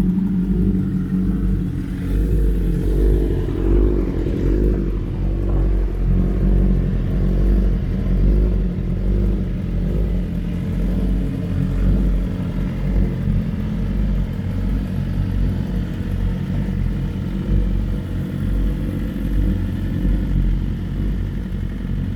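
Several sportbike engines, starting with a Honda CBR1000RR Fireblade with an aftermarket exhaust, running together at a loud, steady idle. Their pitch wavers and rises briefly a few seconds in, as from a light rev.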